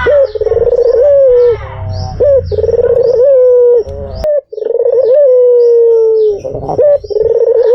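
White Barbary dove (puter putih) cooing over and over: each call starts with a rolling, pulsing part and then draws out into a long coo that slowly falls in pitch. There is a short click and gap about four seconds in.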